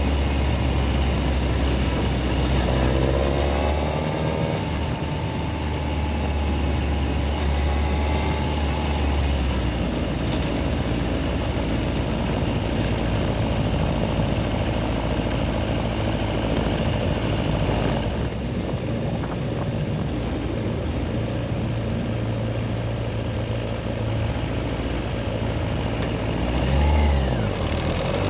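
Yamaha XJR1300 inline-four engine idling steadily in traffic, then running on with a rougher note. Near the end it revs up with a rising pitch.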